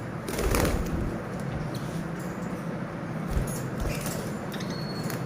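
Pet lovebirds moving about, with scratchy rustling and a brief flutter of wings about half a second in, over a steady background hum.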